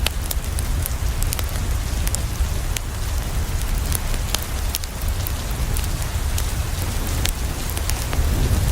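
Steady rain against a window with a deep low rumble underneath, mixed with frequent sharp pops and crackles of a wood fire.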